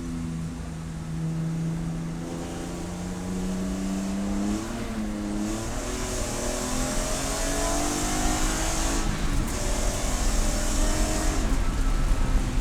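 Race car engine running hard, its note holding steady, then climbing and falling several times with throttle and gear changes, getting louder near the end.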